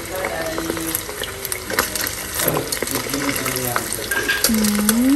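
Fishballs frying in hot oil, a steady sizzle scattered with small pops, while they are stirred in the pan.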